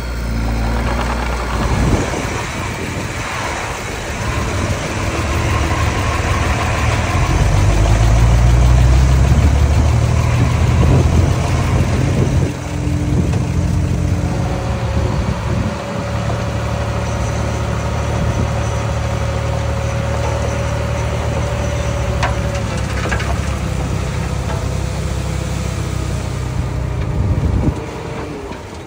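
Small bulldozer's diesel engine running under load, louder for a few seconds about a third of the way in, then easing off near the end.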